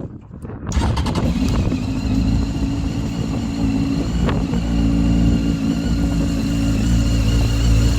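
Honda CB900F inline-four motorcycle engine catches about a second in and settles into a steady idle.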